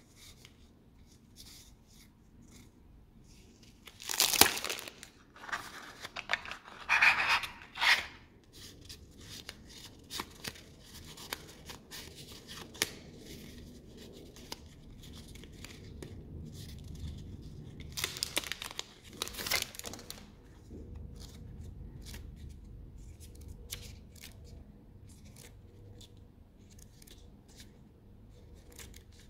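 Packaging being torn open and crinkled by hand, with loud rips about four, seven and nineteen seconds in and light clicks and rustles of handling between.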